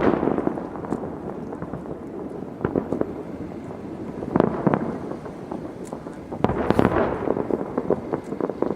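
Fireworks display going off across open water: a steady rumble of distant aerial shells bursting and crackling, with louder bangs about four and a half seconds in and again near seven seconds.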